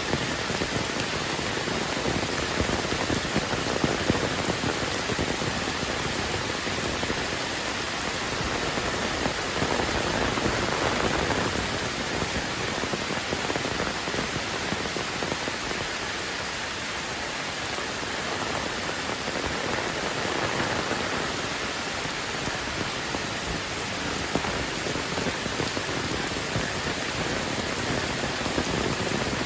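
Heavy rain falling and pattering on surfaces, a dense, steady hiss that swells slightly now and then.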